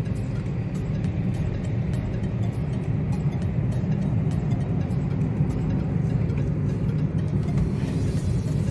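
Steady low rumble of engine and road noise from a vehicle driving along at an even pace.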